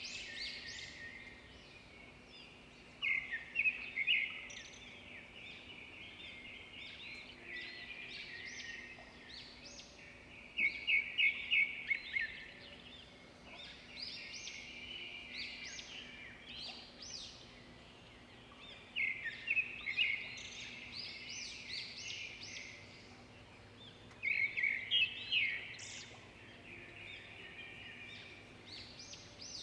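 Swiftlets twittering in rapid trains of high chirps. Softer chirping runs throughout, with four louder bursts: about three seconds in, around eleven seconds, near twenty seconds and about twenty-five seconds in. A faint steady hum lies underneath.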